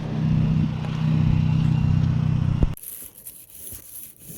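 Dodge Journey with a muffler delete, its exhaust giving a loud steady low drone that cuts off abruptly about two-thirds of the way through. Faint scraping and rubbing follow.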